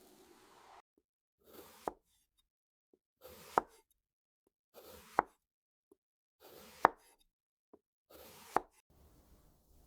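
Five evenly spaced strokes, about one every 1.7 seconds, each a short scraping swell that ends in a sharp tap.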